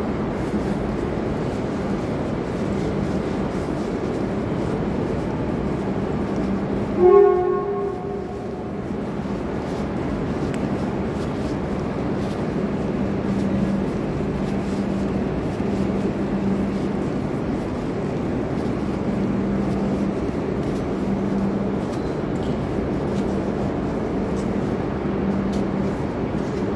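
E5-series Shinkansen creeping slowly up to the platform for coupling, with a steady low hum. About seven seconds in, its horn gives one short blast lasting about a second.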